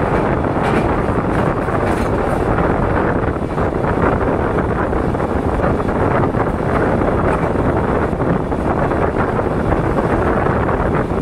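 Passenger express train running at speed: a steady, loud rumble of coaches and wheels on the track, with wind buffeting the microphone.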